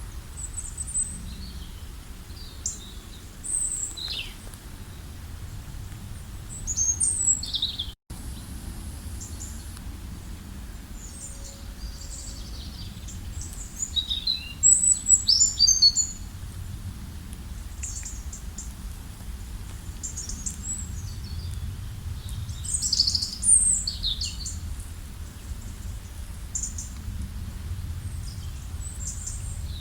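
Several wild birds chirping and singing in short, high calls, busiest about halfway through and again a little later, over a low steady rumble. The sound cuts out for an instant about eight seconds in.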